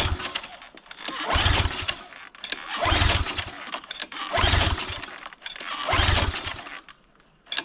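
Small gasoline engine of a pressure washer being pull-started: about five yanks on the recoil cord, roughly every second and a half, each turning the engine over briefly without it catching. The engine has spark but gets no fuel, because a carburetor orifice is gummed up with stale gasoline.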